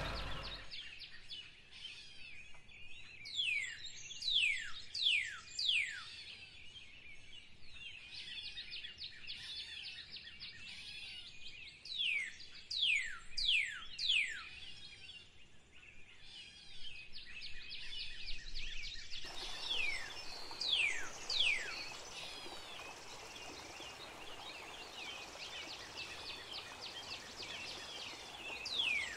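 Wild birds calling: a clear whistle that slides steeply down in pitch, repeated in runs of two or three every several seconds, over a steady background of faint chirping. The background hiss grows louder about two-thirds of the way through.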